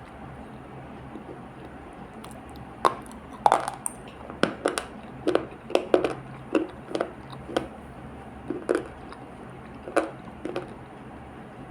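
Multani mitti (Fuller's earth) paste being worked for its sound: a string of irregular, crisp clicks and cracks beginning about three seconds in, over a steady low hum.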